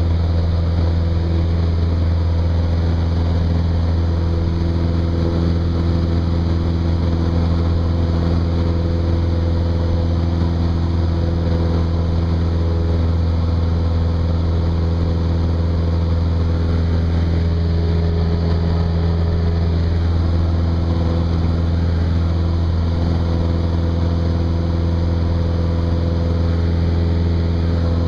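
Cessna 172's piston engine and propeller droning steadily at a constant power setting, a low even hum with no change in pitch.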